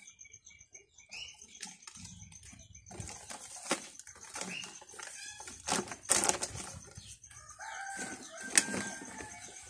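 Chickens clucking, mixed with rustling and several sharp clicks, the loudest about six and eight and a half seconds in. A faint steady high tone runs underneath.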